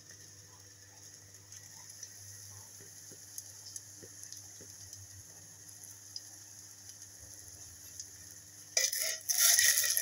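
Bread for French toast frying in a steel wok over a portable gas stove: a faint steady sizzling hiss with a few light clicks, then a loud crackling sizzle that starts suddenly near the end.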